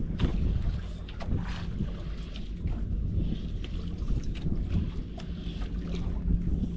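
Wind buffeting the microphone over a steady low hum, with scattered faint clicks.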